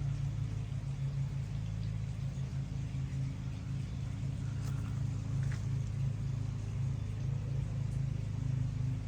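An engine running steadily at low speed, a low pulsing hum, with a couple of faint light ticks about halfway through.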